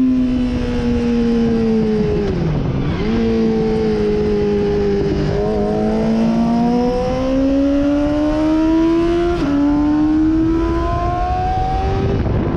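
Sportbike engine on track, heard over rushing wind noise: the engine note falls for about two seconds and dips sharply, then climbs slowly, with sudden jumps in pitch twice near the end.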